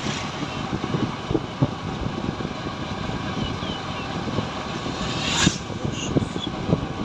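Motorcycle riding along a road: steady engine and road noise with wind buffeting the microphone, and a brief whoosh about five and a half seconds in.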